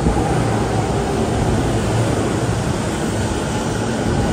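JR East E231-800 series electric commuter train pulling into the platform, its cars rumbling steadily past at close range.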